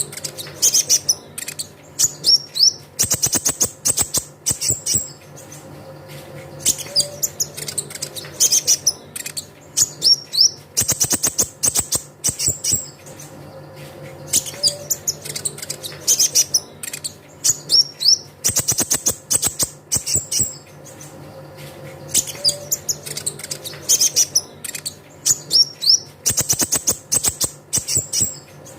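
Kolibri ninja (konin) sunbird song used as a lure: rapid high chirps and quick rising whistled notes broken by fast, dry trills. The same phrase sequence repeats about every 8 seconds, the sign of a looped recording.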